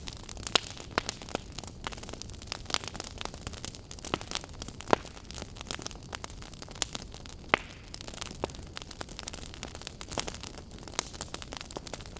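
Wood fire in a fireplace crackling: irregular sharp pops and snaps over a low steady hiss, with a few louder pops scattered through.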